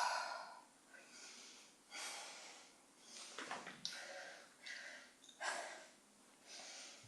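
A woman breathing hard with exertion while holding low squat pulses: faint, short breathy puffs coming about once a second.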